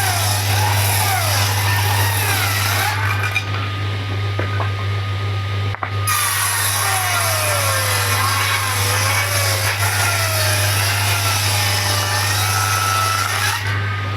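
Power tool cutting wood, running steadily with a constant low hum.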